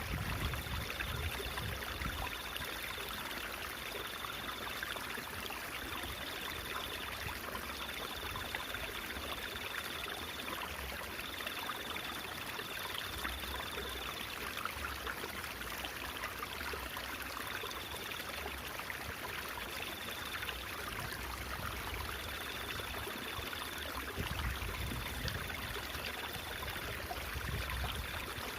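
Stream water babbling and trickling steadily. A faint, high, thin tone keeps coming and going in short stretches of about a second each.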